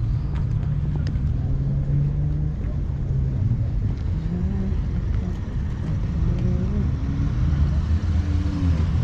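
A car engine running at idle close by, a steady low rumble whose pitch shifts slightly in the second half.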